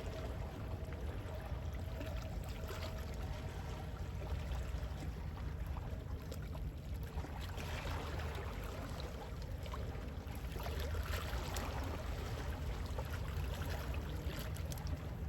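Gentle sea waves washing in, a steady wash of water that swells twice in the second half, over a constant low rumble.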